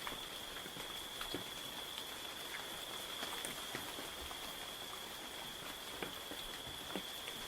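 Heavy rain falling, with scattered single drops ticking close by, over a steady high-pitched cricket trill.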